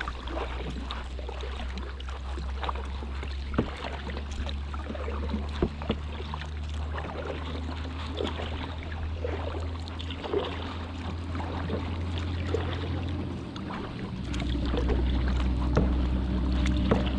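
Kayak paddling on a river: scattered small splashes and drips from the paddle over a steady low hum, which changes and grows stronger about fourteen seconds in.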